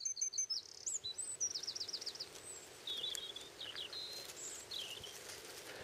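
Songbird singing in high, thin notes over a faint outdoor hiss, with a quick run of about eight repeated notes about a second and a half in, then scattered warbling notes.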